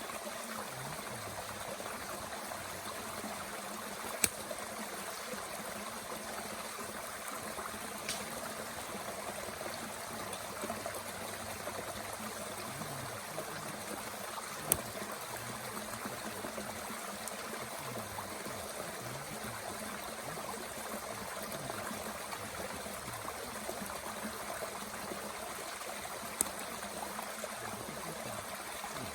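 Mountain stream flowing steadily, with a few sharp single pops from wood burning in a Bushbox stove: about four seconds in, about eight seconds in, around fifteen seconds and near the end.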